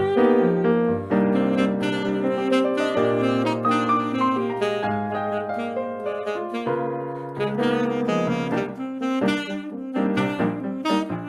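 Saxophone playing a melody over piano accompaniment, with the piano's chords coming forward near the end.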